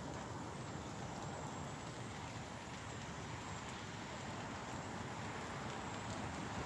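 Light rain falling steadily: an even hiss with faint scattered ticks of drops.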